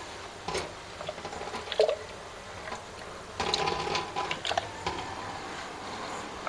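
Marinated chicken sizzling in oil in an aluminium pan, with irregular crackles and spatters that come thicker about three and a half seconds in.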